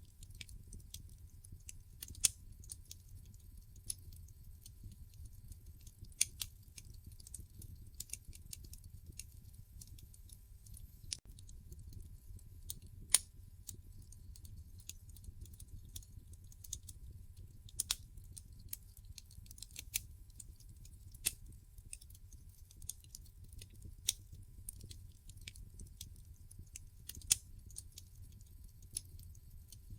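Wood fire burning in a fireplace: a low steady rumble of flames with sharp, irregular crackles and pops from the burning logs, a few of them much louder than the rest.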